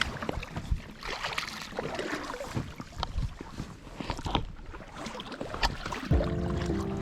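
Water splashing and irregular knocks of paddles or oars against an inflatable boat. Background music comes in near the end.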